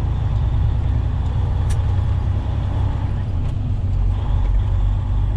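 Semi truck's diesel engine running steadily on the road: a continuous low rumble.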